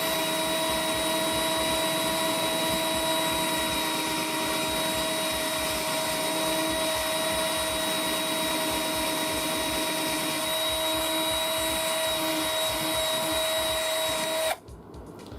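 Small Ozito hobby drill running at a steady high speed with a constant whine, boring into a plastic computer case; it stops suddenly near the end.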